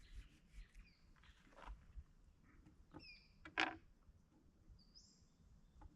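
Faint outdoor ambience with short, high bird chirps and whistles a few times, and a few soft clicks and knocks, the sharpest about three and a half seconds in.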